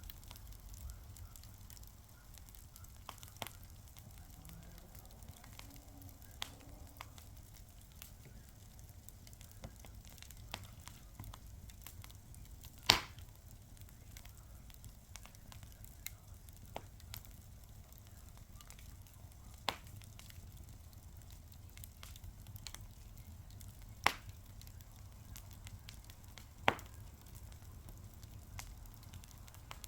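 Fire crackling: sparse small crackles and ticks over a faint low rumble, with a few sharp, louder pops, the loudest about halfway through.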